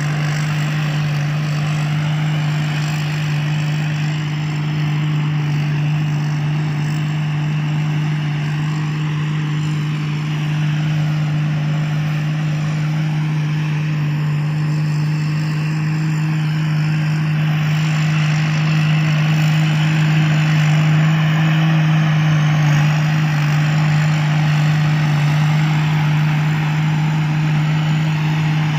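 Combine harvester running steadily at working speed: a constant engine drone with a broad mechanical whir over it, swelling a little about two-thirds of the way through.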